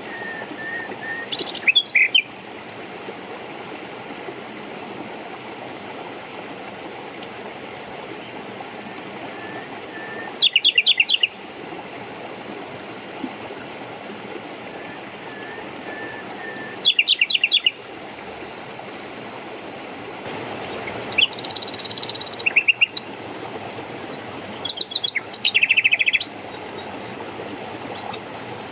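Songbirds calling in short bursts of rapid repeated high notes every few seconds, coming more often near the end, over the steady rush of running water.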